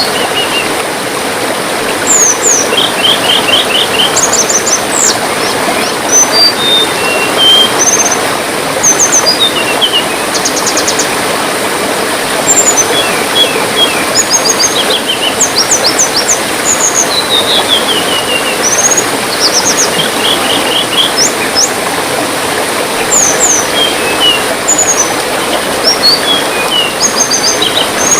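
Small songbirds chirping and trilling in short, quick high-pitched series over a steady trickle of running water.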